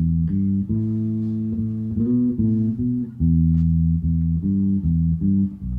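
Instrumental rock music led by a bass guitar playing a line of held low notes, each changing every half second or so, with guitar.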